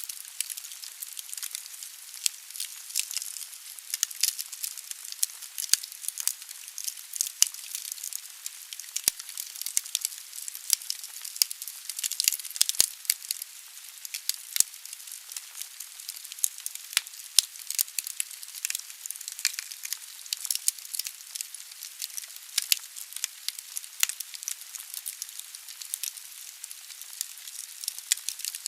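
Wood fire burning in a fireplace: dense, irregular crackling and popping of burning logs over a steady soft hiss of the flames.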